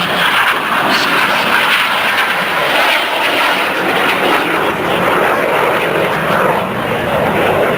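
BAE Hawk jet trainers' turbofan engines flying overhead: a loud, steady rush of jet noise that holds through the whole stretch without a sharp pass-by.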